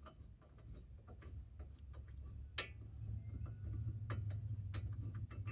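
Faint metallic clicks and ticks as a brake caliper bracket bolt is loosened and spun out by hand. There are a few short high chirps, and a low hum grows louder about three seconds in.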